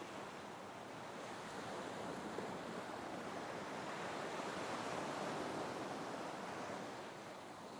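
Ocean surf washing on a shore, soft and even, swelling slowly to a peak around the middle and ebbing again near the end.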